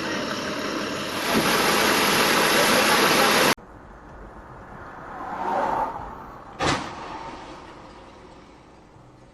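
Loud, steady noise of a moving car that cuts off abruptly. It is followed by a much quieter stretch where a vehicle passes, swelling and fading, and a single short sharp knock about two-thirds of the way through.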